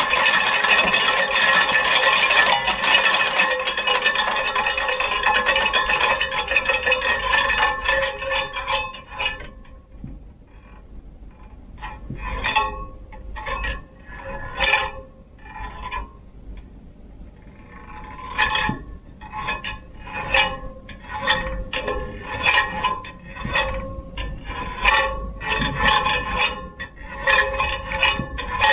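Giant Momentum Latte bicycle clinking and rattling with a metallic ring. A dense run of clinks with a steady ringing tone lasts about nine seconds. After that come sparser, irregular clinks, each ringing briefly.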